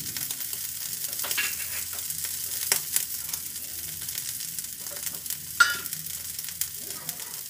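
Aloo tikkis shallow-frying in desi ghee on a flat tawa: a steady sizzle with scattered crackles and pops, the sharpest about five and a half seconds in.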